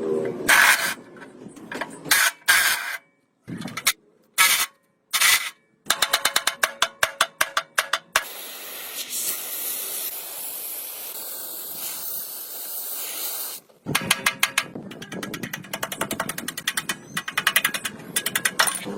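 Workshop tool sounds from motorcycle restoration work: several short noisy bursts, then rapid clicking, a steady hiss lasting about five seconds from about eight seconds in, and rapid clicking again after it.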